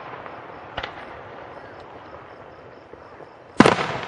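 Aerial firework shells bursting: a lighter bang about a second in, then a much louder boom near the end that trails off briefly.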